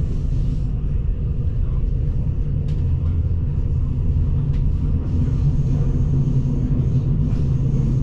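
Steady low rumble of a Zentralbahn narrow-gauge passenger train running on the track, heard from inside the carriage. A couple of faint clicks come through, and a faint high whine joins in the second half.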